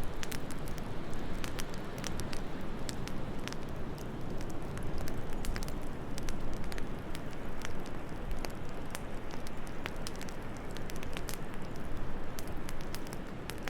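Wood fire crackling, with frequent small sharp pops scattered irregularly, over a steady low wind.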